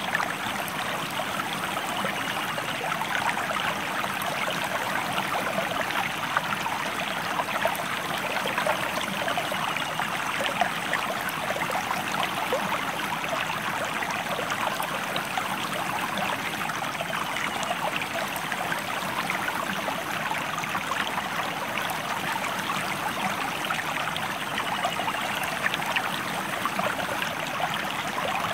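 A stream running over rocks: a steady rush of water with fine splashing, unbroken throughout.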